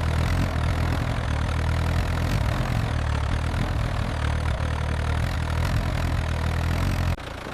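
Tractor engine running steadily with a low drone, then dropping sharply in level near the end.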